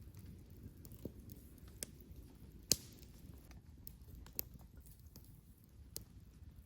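Campfire crackling: a few scattered sharp snaps, the loudest about three seconds in, over a low steady background.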